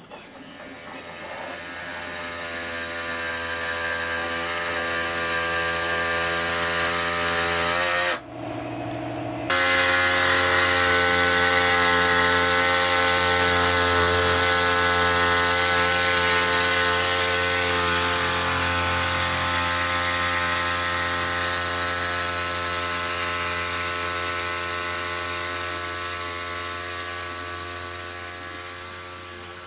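An electric power tool's motor running steadily at a constant speed. It breaks off briefly about eight seconds in, then runs on again.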